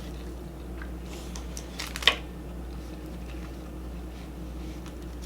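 Quiet eating and shrimp-handling noises: a few faint clicks and one sharp click about two seconds in, over a steady low hum.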